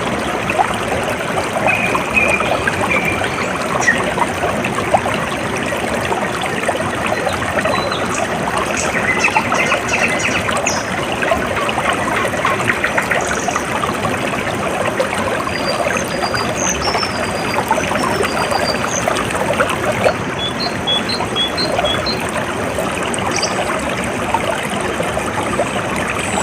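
Water trickling and splashing steadily, with small birds chirping over it: short high notes at several points, including a quick run of four notes about twenty seconds in.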